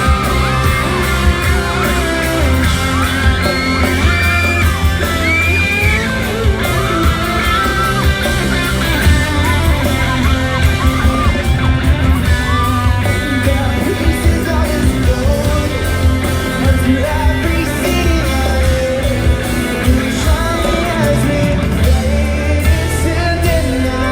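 Pop-rock band playing live with guitars, bass and drums, with singing voices and yells from the crowd over it.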